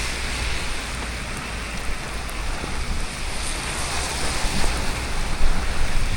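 Heavy thunderstorm rain falling with rainwater running off, a steady hiss.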